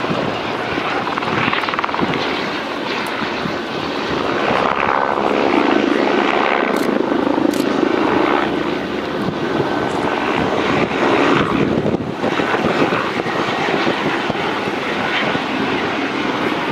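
Helicopter running, a loud steady rotor and engine noise that swells a little in the middle.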